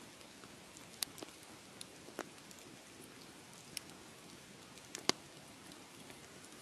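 Wood fire crackling: a low steady hiss with irregular sharp pops, the loudest about five seconds in.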